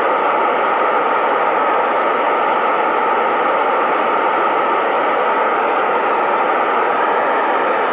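Metal-melting furnace burner running steadily during a melt: an even, unbroken rushing noise.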